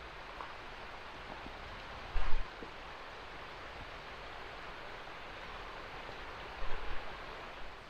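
Steady rushing of water in a mountain gill (ravine stream), with two short low bumps on the microphone, one about two seconds in and one near the end.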